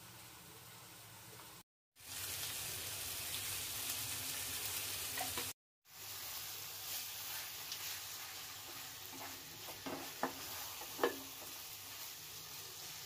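Kohlrabi (nookal) pieces in a thick spice paste sizzling in oil in a non-stick frying pan as a spatula stirs and scrapes them, roasting dry once the gravy has thickened. A few sharp scrapes of the spatula on the pan stand out near the end, and the sound breaks off twice for an instant at edits.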